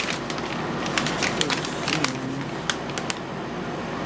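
A sheet of paper being unfolded and handled, crinkling with a scatter of sharp crackles over a steady background hum.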